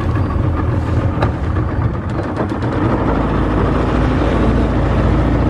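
Motorboat engine running steadily under way, a continuous low rumble with rushing noise over it, and a few sharp clicks about a second and two seconds in.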